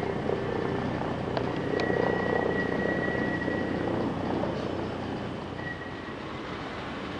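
Military helicopter's rotor and turbine engine running, with a steady high whine over a deep hum; it grows louder around two seconds in and fades somewhat after about five seconds.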